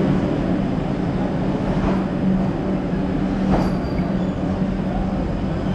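Vande Bharat Express electric trainset pulling out along the platform: a steady rumble with a constant low hum.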